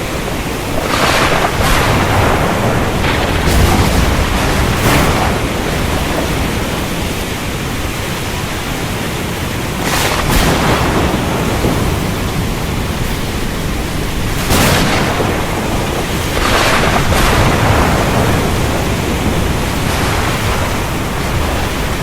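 Thunderstorm: steady rain hiss with several sharp thunder cracks scattered through it and low rolling rumbles.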